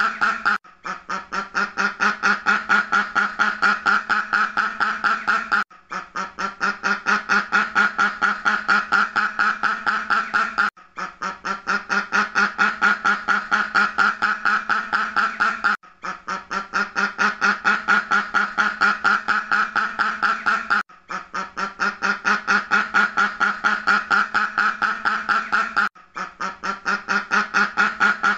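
Duck quacking in rapid, continuous runs of many quacks, each run about five seconds long and broken by a brief gap. The same pattern repeats evenly, as a looped quacking sound effect.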